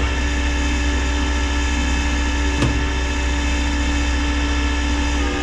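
Tow truck's engine idling steadily, a constant low hum with a steady whine above it, and a single brief click about two and a half seconds in.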